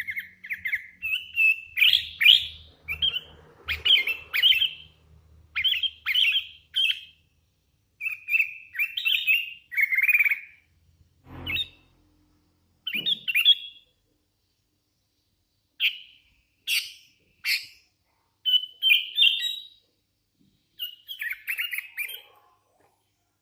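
Hand-reared sooty-headed bulbul (kutilang) singing in short bursts of bright chirpy notes, phrase after phrase with brief pauses between them. A single low knock sounds about halfway through.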